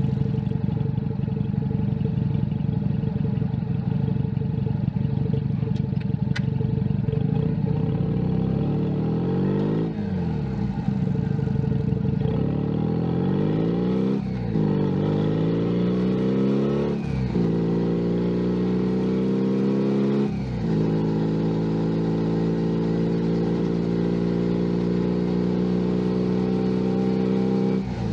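Junak M11 Cafe's 125 cc single-cylinder engine, heard from the bike as it rides. It runs steadily at first, then accelerates through the gears: the pitch rises and drops sharply at each of four upshifts, then holds steady at a cruise.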